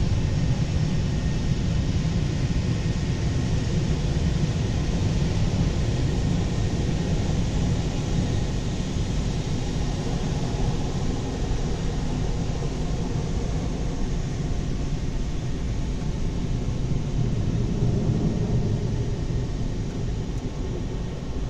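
Automatic car wash machinery running: a steady, loud rush with a low rumble underneath.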